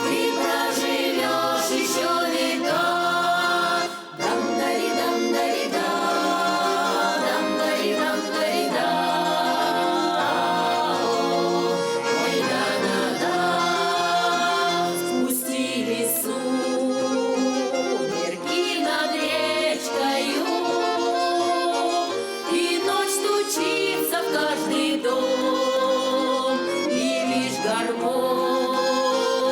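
Accordion playing a Russian folk song, with voices singing along.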